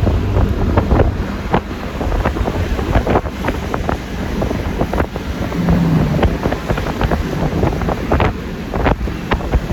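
Wind buffeting the phone microphone on a moving scooter, with irregular sharp pops over a steady low rumble of engine and road noise.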